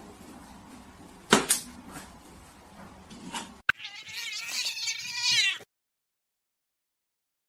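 A sharp knock about a second in, then a cat's long wavering yowl lasting about two seconds that cuts off suddenly.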